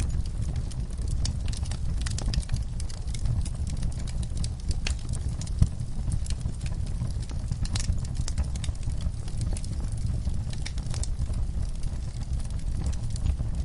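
Wood fire burning, with a steady low rumble and many irregular crackles and pops, one sharper pop about five and a half seconds in.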